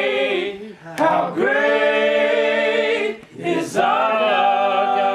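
A group of men and women singing a worship song together, holding long notes with short breaks between phrases.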